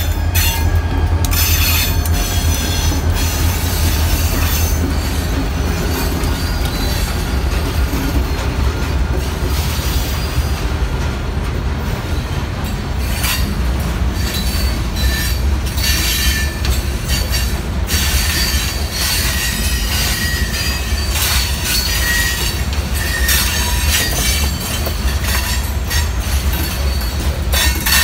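A freight train of loaded stone hopper cars rolls past close by, led by an EMD SD40-2 diesel locomotive at the start: a steady heavy rumble with wheel clicks over the rail joints. Short high wheel squeals come now and then in the second half.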